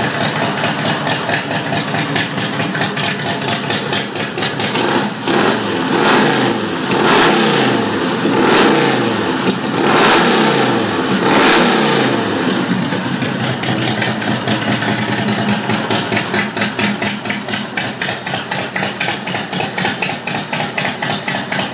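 1991 Harley-Davidson Fat Boy's Evolution V-twin running through a Freedom aftermarket exhaust. It idles, is revved with several quick throttle blips in the middle, each falling back, then settles into a lumpy, pulsing idle.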